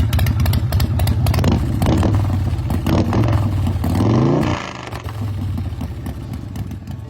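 Custom chopper's 1885 cc cammed Evo V-twin running through Vance & Hines Big Radius pipes, blipped a few times and revved up about four seconds in, then dropping back to a quieter idle.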